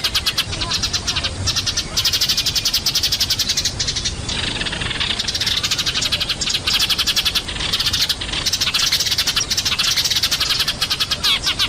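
A noisy flock of Eurasian tree sparrows chirping: a fast, dense run of short chirps, many a second, with a couple of brief lulls. It is a lure call for drawing tree sparrows down.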